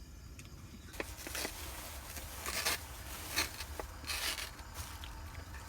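Rustling and clicking of things being handled at a meal table, in several short bursts over a low steady hum.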